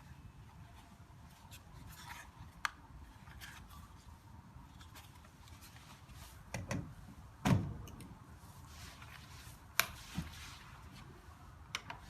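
Electric heater running with a low steady hum, over which come several sharp clicks and knocks, the loudest a knock with a dull thud about halfway through.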